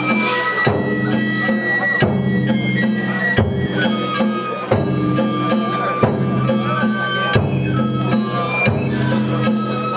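Danjiri festival music: a high flute plays a melody of held notes over a steady low sound, with a drum struck regularly about every second and a half.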